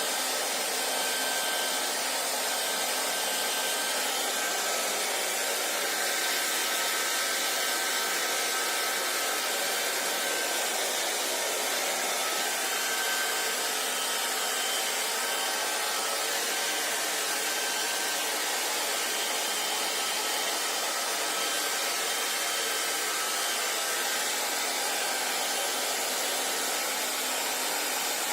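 Hair dryer blowing steadily: a constant rush of air with a faint motor whine, no change in speed.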